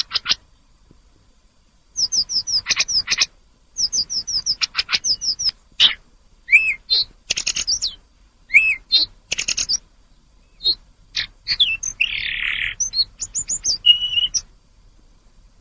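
Tledekan gunung songbird singing a varied song: rapid runs of high, quick downslurred whistled notes in phrases separated by short pauses, with a brief harsh rasping note about twelve seconds in.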